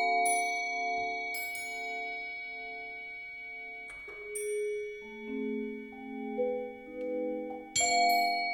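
Mallet percussion music: vibraphone and marimba notes ringing and sustained, some with a slow pulsing, with a few bright high metallic strikes that ring on, about a second and a half in, around four seconds in and again near the end.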